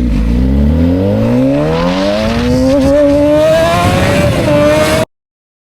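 Motorcycle engine accelerating, its revs rising steadily for about three seconds and then holding level, until the sound cuts off abruptly about five seconds in.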